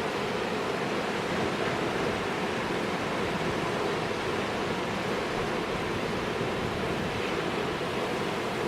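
Heavy winter storm surf breaking on a rock jetty in high wind: a steady, unbroken rush of wave noise.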